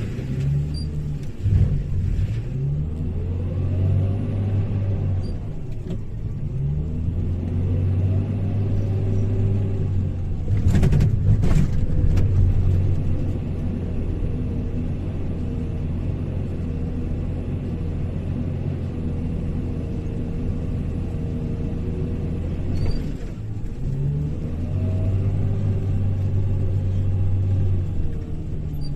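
Hyundai HL780-7A wheel loader's diesel engine running under load, revving up and settling back several times as it works. About eleven seconds in, a loud clattering burst rises over the engine.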